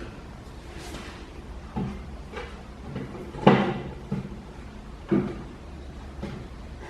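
A handful of separate knocks and thuds, about five, from objects being handled and set down; the loudest comes about halfway through.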